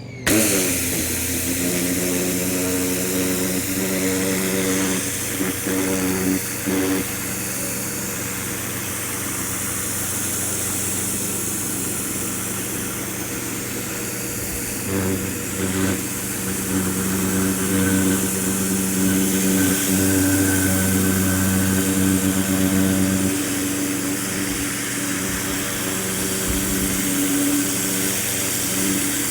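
Ryobi 1600 PSI electric pressure washer starting up with a quick rise in pitch, then running with a steady buzzing hum from the motor and pump over a hiss. The hum shifts slightly now and then.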